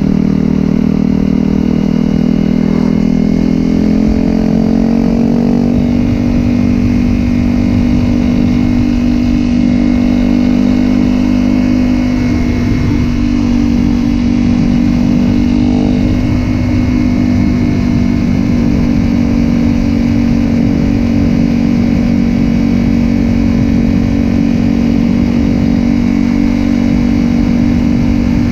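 Honda CRF250L single-cylinder engine running through a Yoshimura aftermarket exhaust. Its pitch climbs slightly a few seconds in, then holds steady, over a flickering low rumble.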